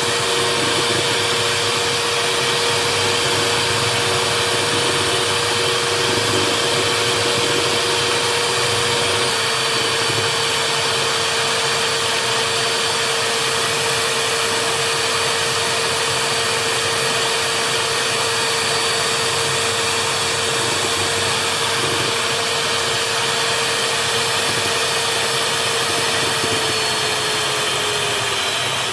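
Electric mixer running steadily as it whisks a jelly and Greek yoghurt mixture to beat air into it. A steady motor whine runs throughout, its pitch sagging slightly near the end.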